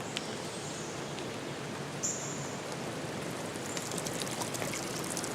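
Nature ambience of steady rushing water, with a brief high chirp about two seconds in and a patter of small drips and ticks building from about four seconds in.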